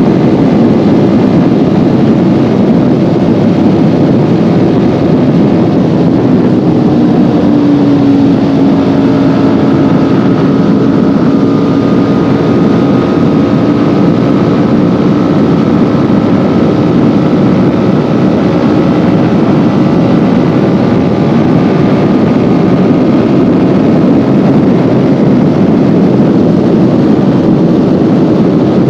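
Kawasaki Ninja 400's parallel-twin engine running steadily under way, its pitch drifting slightly up and down, over a steady rushing noise. The valves have just been adjusted.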